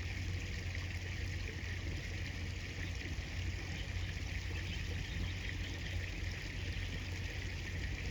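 Flowing river water: a steady rushing, with a low rumble underneath.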